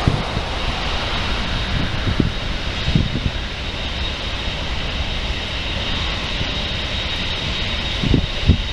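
Wide-body jet airliner's engines running, a steady rush of noise with a thin high whine. The sound fades away just as it ends.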